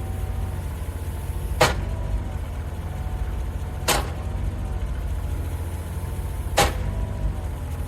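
Doosan DX35z mini excavator's diesel engine running steadily, with three sharp knocks about two to three seconds apart.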